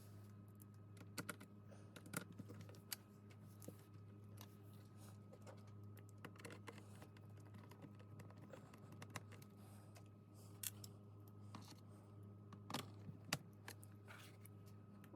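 Faint, irregular tapping of computer keyboard keys, a few loud clicks among them near the end, over a steady low hum.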